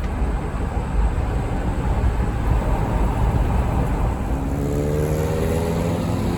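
Car driving along a road: steady low road rumble, with an even engine hum coming in about four and a half seconds in.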